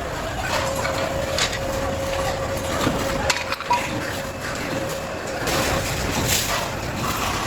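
Workshop noise: a steady rushing background with a faint steady whine, broken by a few sharp metallic knocks, the clearest about a second and a half in and near the middle.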